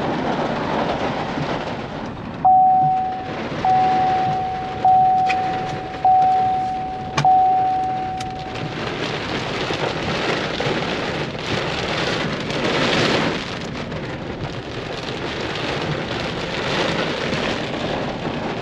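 Heavy rain pouring steadily in a thunderstorm. Near the start, a single-pitch electronic chime sounds five times, about a second apart.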